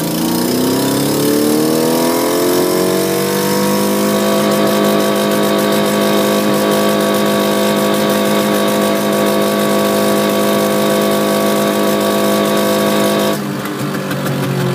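Nissan Maxima's VG-series V6 engine heard from inside the cabin, climbing in pitch under acceleration for about four seconds, then holding a steady high pitch before dropping off abruptly near the end.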